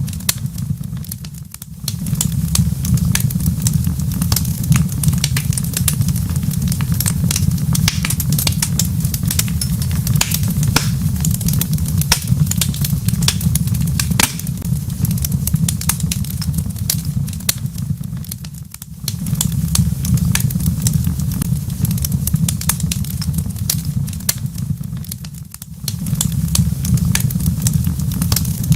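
Wood fire in a fireplace crackling, with a steady stream of irregular sharp pops and snaps over a low, steady rumble. The rumble briefly drops away three times: near the start, about two-thirds in, and near the end.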